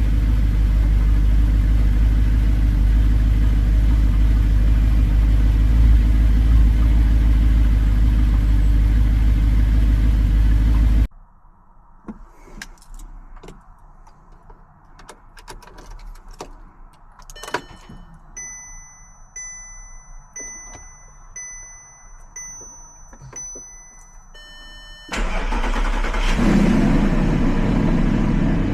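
2009 Audi R8's 4.2-litre V8 running steadily, then cutting off abruptly about 11 seconds in. A quiet stretch follows with scattered clicks and a short electronic chime repeating about once a second. Near the end the V8 starts again and flares up.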